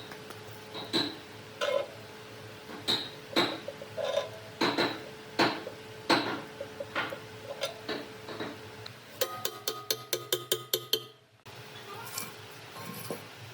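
A series of sharp knocks and clinks in a workshop, about one or two a second, over a faint steady hum. Near the end they speed up into a quick rattle of clicks that cuts off abruptly.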